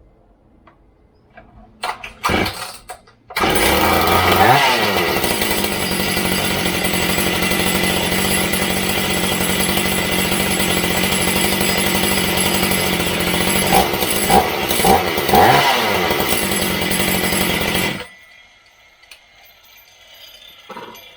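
Shindaiwa 488 two-stroke chainsaw, just rebuilt, starting on choke after a couple of pulls about two seconds in, then running steadily, revved up and back down briefly near the start and again near the end, before being shut off suddenly.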